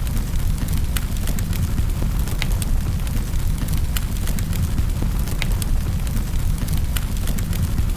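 Wood fire in a fireplace crackling, with a steady deep rumble under irregular sharp pops and snaps, several a second.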